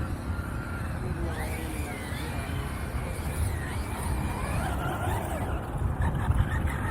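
Wind buffeting the microphone, heard as an uneven low rumble, with faint voices in the distance.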